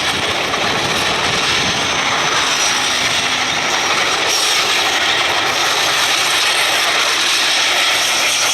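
A train rolling past at speed: a steady rush of steel wheels on rail with a mechanical clatter.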